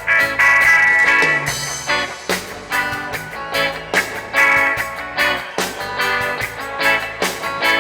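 A reggae band playing live, an instrumental passage with a guitar and a steady beat.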